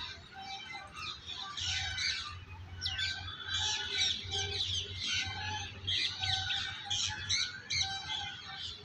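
Many small birds chirping and calling at once in a dense, continuous chorus, over a low rumble.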